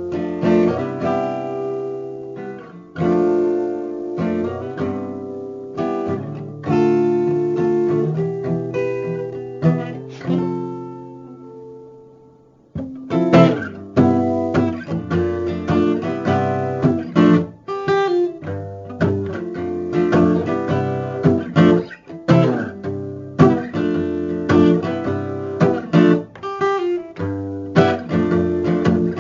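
Acoustic guitar strumming chords with no singing. The chords ring and die away to a pause about 12 seconds in, then brisker rhythmic strumming starts again.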